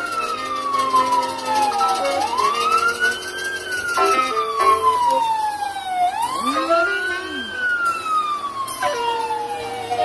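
Emergency vehicle siren wailing: the pitch rises quickly, then falls slowly, repeating about every four seconds.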